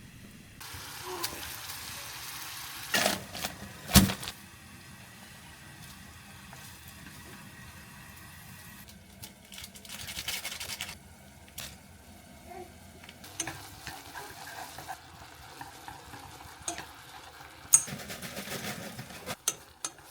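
Kitchen cooking sounds: several stretches of hissing, with clinks and a loud knock of utensils or dishes about four seconds in.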